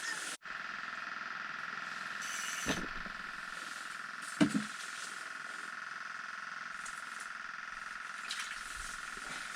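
A steady high-pitched buzzing tone, with two soft knocks, the second, about four and a half seconds in, the louder.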